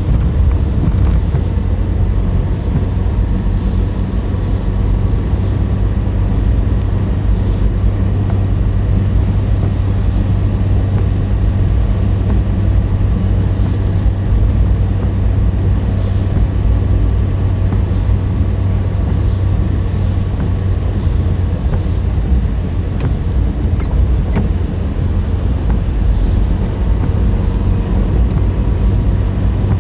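A car driving: a steady low rumble of engine and tyre noise that holds evenly throughout.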